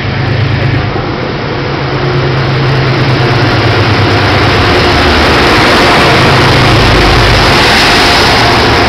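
GE P32AC-DM locomotive's diesel engine working as it pushes a three-car train out of the station, together with the rumble of the cars rolling past. It starts as a steady low hum and grows steadily louder as the locomotive draws near.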